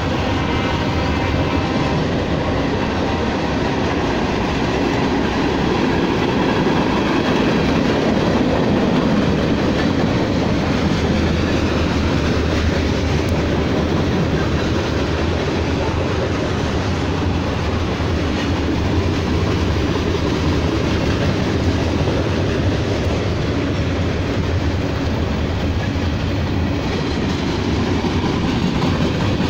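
Freight cars of a Norfolk Southern manifest train rolling past: a steady rumble of steel wheels on rail with clickety-clack. The locomotives' horn, sounding up ahead, trails off in the first second or two.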